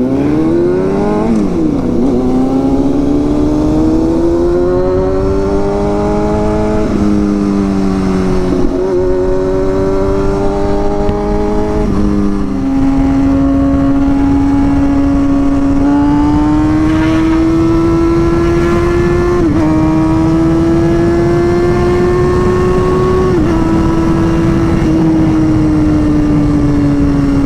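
Sport motorcycle engine running under way. The revs sweep up at the start and climb and break with gear changes over the first dozen seconds, then hold nearly steady with a few small shifts in pitch.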